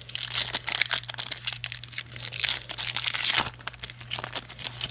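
Trading cards and their plastic wrapping being handled, a dense irregular crinkling and rustling, over a steady low electrical hum.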